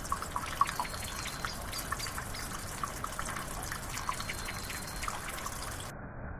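Water trickling and dripping, with many small splashes and plinks over a steady wash. About six seconds in, the sound switches abruptly to a duller, steady rush.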